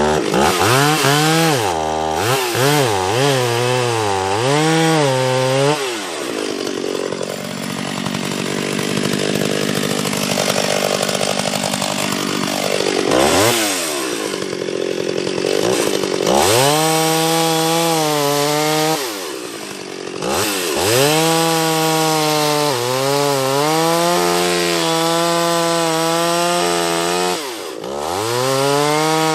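Two-stroke chainsaw running at high revs and cutting into a dead sweet gum trunk to fell it, its pitch wavering as the chain bogs in the wood. Several times it drops back toward idle and revs up again.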